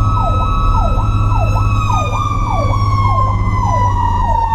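Fire truck siren: an electronic wail sweeping up and down about once a second, over a steady mechanical siren tone (a Federal Q-type) that starts to wind down, its pitch sliding slowly lower from a couple of seconds in. The truck's engine drones low underneath.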